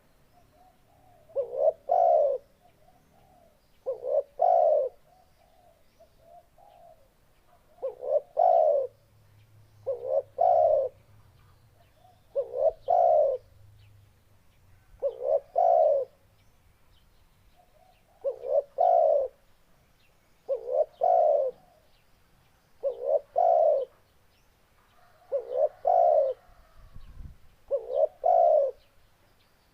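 Spotted dove (tekukur) cooing: the same short phrase repeats about every two seconds, each a quick double note followed by a longer, lower coo.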